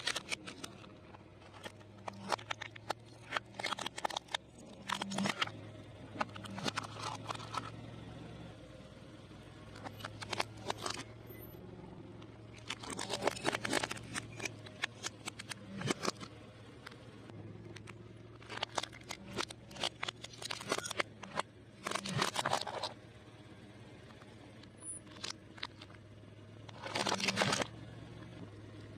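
Close-miked chewing of crunchy fried food, in crackly bursts of bites and chews with short pauses between them, over a low steady hum.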